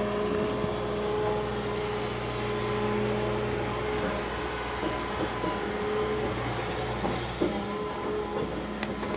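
Large excavator running steadily: an even engine hum with a steady higher tone over it.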